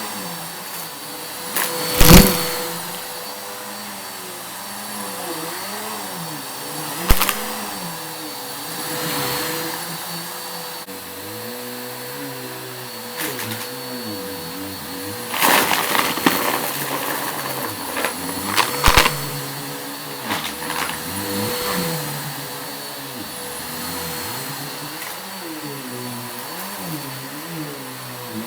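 Vacuum cleaner running steadily over a rug, with sharp crackles and clatters as crunchy debris is sucked up. The loudest crackle comes about two seconds in, and a cluster of them follows between about fifteen and nineteen seconds.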